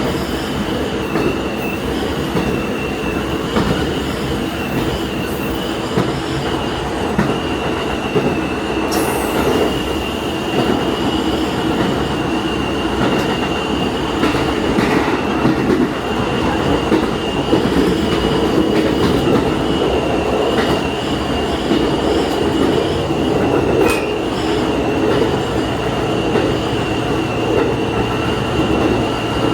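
Diesel railcar running along the line, heard from inside the train: a steady rumble of engine and wheels on rail with a thin high whine held throughout. A few sharp clicks from the wheels come through, one about nine seconds in and one near twenty-four seconds.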